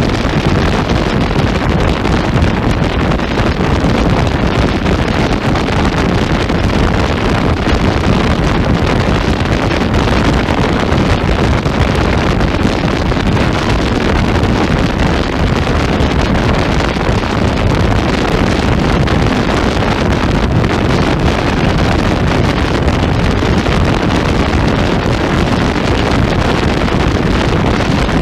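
Steady, loud wind rush on the microphone of a Hyosung GV125 S Aquila motorcycle riding at speed. The level hardly changes throughout.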